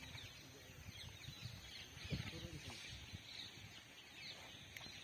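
Faint background of wild birds chirping, many short high chirps overlapping throughout.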